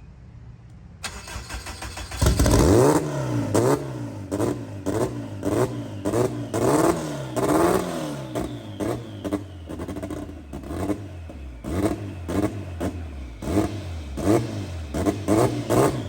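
Turbocharged Honda B-series four-cylinder engine in an EK Civic. It comes in loud about two seconds in and is then revved up and down over and over, about once a second, with sharp cracks between the revs. It cuts off abruptly at the very end.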